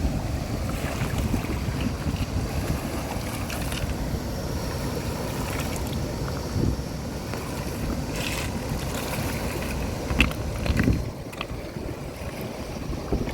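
Steady low rumbling noise of wind on the microphone mixed with flowing water, with a few short sharp clicks about two-thirds of the way through.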